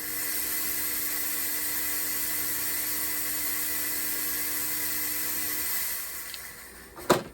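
Steady hiss with a faint low hum under it, fading out about six seconds in, followed by a sharp click near the end.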